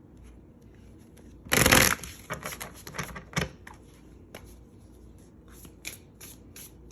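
Tarot cards being shuffled by hand: a loud burst of shuffling about one and a half seconds in, then scattered light card clicks and taps.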